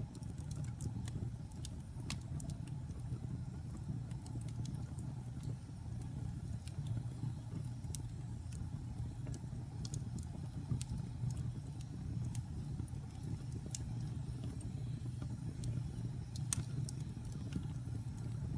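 Fire burning in a fireplace: a steady low rumble of flames with scattered sharp crackles and one louder pop near the end.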